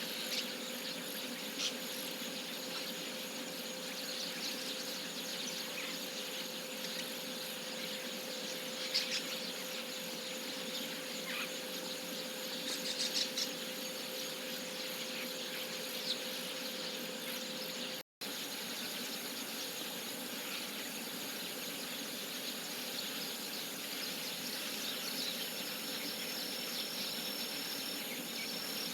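A few short, scattered calls of chestnut-cheeked starlings over a steady outdoor background hiss. The sound drops out for an instant a little past halfway, and a thin high steady tone comes in over the last few seconds.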